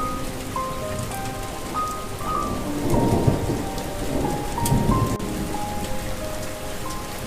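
Steady rain falling, with two low rolls of thunder swelling about three and five seconds in. A soft, slow melody of held notes plays over the rain.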